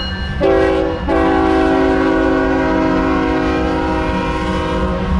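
Union Pacific diesel freight locomotive's air horn sounding several tones at once: a short blast about half a second in, then one long blast held for about four seconds, over a steady low rumble.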